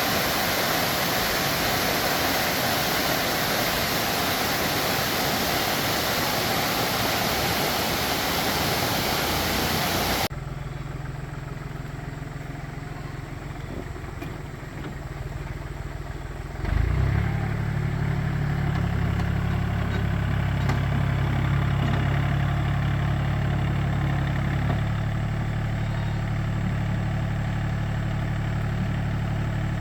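Two-wheel tractor engine running steadily. It comes under a loud even rushing noise at first, which stops abruptly about a third of the way in, and the engine gets louder just past halfway.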